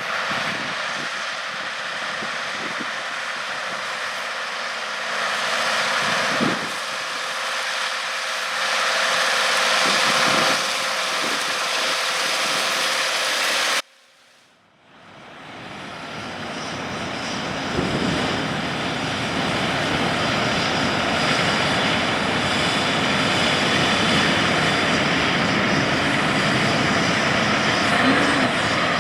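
Heavy diesel harvest machinery running steadily. About halfway through the sound drops out briefly, then comes back with a deeper, fuller rumble.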